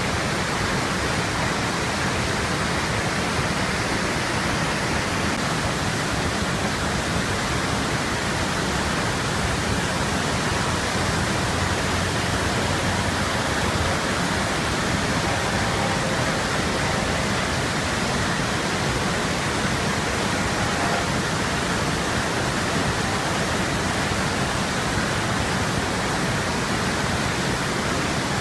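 Waterfall pouring: a steady, even rush of falling water that holds at the same level throughout.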